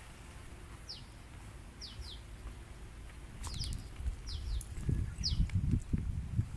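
Wild birds chirping: short high notes that slide downward, repeating about once a second, some in quick pairs. Low rustling and thumps grow louder in the second half.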